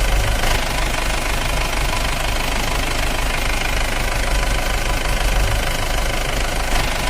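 Engine-like sound running steadily with a low knocking hum, as from a toy JCB backhoe loader.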